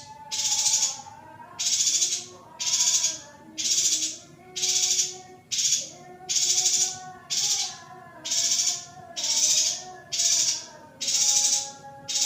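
Female yuhina giving harsh, rasping calls repeated about once a second, with a faint melody beneath. It is a masteran recording meant to bring male yuhinas into breeding condition.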